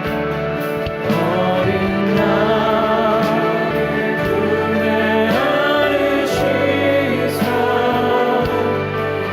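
Korean Christian worship song: voices singing over a sustained instrumental accompaniment, the singing coming in about a second in.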